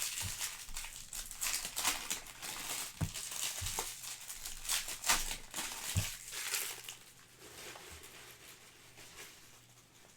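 Packaging crinkling and rustling as it is handled, mixed with quick crackles and a few soft knocks on a table. It dies down after about seven seconds.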